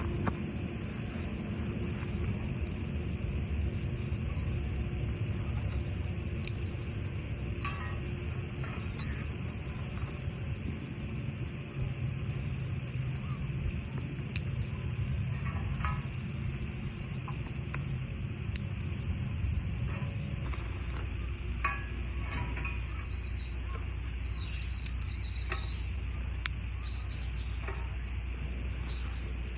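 An autumn insect chorus of crickets chirring in a steady, high, continuous trill. A low rumble sits under it for about the first twenty seconds, and a few sharp clicks are scattered through it.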